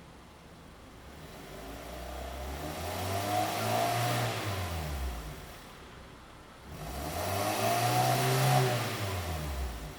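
Hyundai i30 (FD) 2.0L Beta inline-four revved twice through an aftermarket variable-valve exhaust end and sports resonator, the exhaust note rising and falling with each rev, one at about four seconds in and another near the end.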